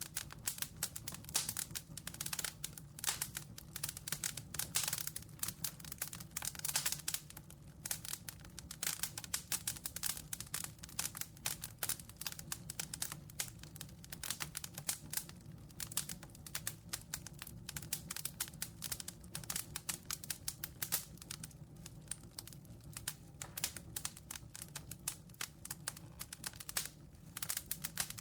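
Wood campfire crackling: dense, irregular pops and snaps of burning wood over a low steady hum.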